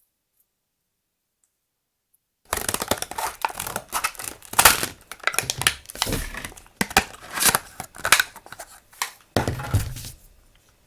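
Stationery packaging and paper handled by hand: irregular crinkling and tearing that begins suddenly about two and a half seconds in and fades out near the end.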